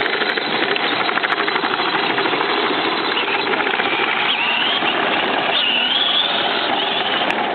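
Small motorcycle's motor running continuously with a rapid mechanical chatter.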